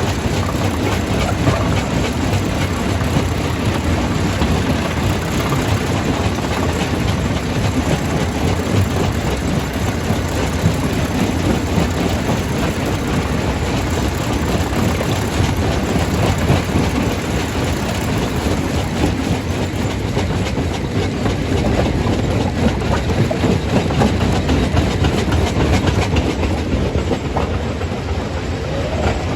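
Stone crusher running under load, rock rattling and cracking continuously as it is crushed.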